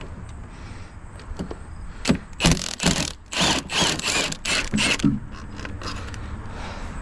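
Milwaukee half-inch impact wrench firing in several short bursts between about two and five seconds in, loosening the fuel rail bolts.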